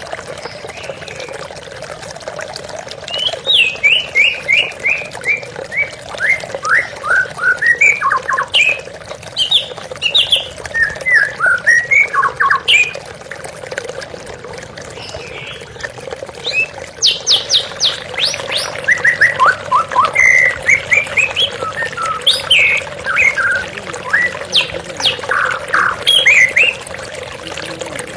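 White-rumped shama singing two long runs of quick, varied notes, sweeps and whistles, with a pause between them, over the steady sound of flowing water.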